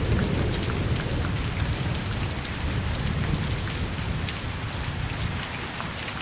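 Steady heavy rain with a low rumble of distant thunder underneath that slowly fades.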